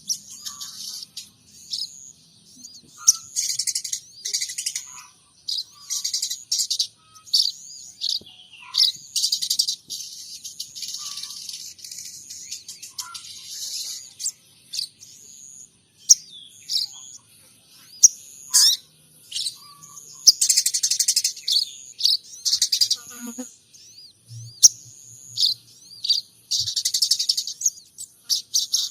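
Sogon trotol songbird singing in repeated bouts of high, rapid chirps and trills with short pauses between, in calls copied from munias and house sparrows.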